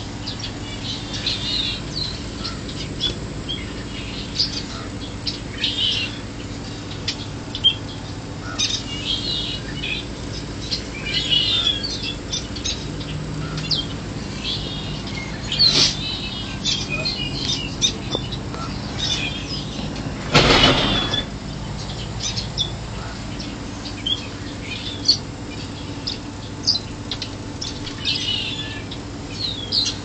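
Small birds chirping and calling over and over in short, high notes, over a steady low hum. About twenty seconds in comes a brief loud rush.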